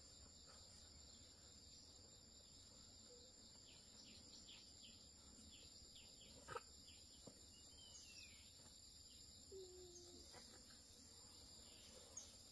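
Faint countryside ambience: a steady high-pitched drone of insects, with scattered short falling bird chirps in the middle and a couple of soft clicks.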